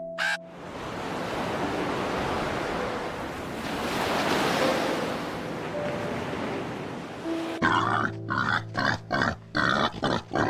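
A pig grunting in a quick series of short bursts, several a second, starting about three-quarters of the way in, over background music. Before that comes a long, noisy rushing sound.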